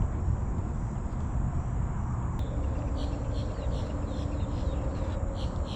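Outdoor pond ambience: a steady low rumble on the microphone, with faint repeated chirping of insects or birds from about three seconds in.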